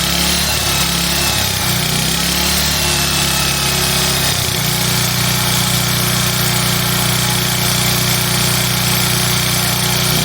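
Small portable gas generator engine running steadily under load; its note wavers at first and settles about four and a half seconds in.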